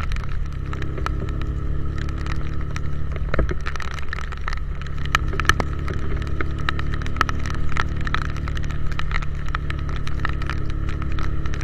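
Motorcycle engine running steadily while riding in the rain, over a constant low rumble of wind on the microphone. Many scattered sharp clicks of raindrops run through it.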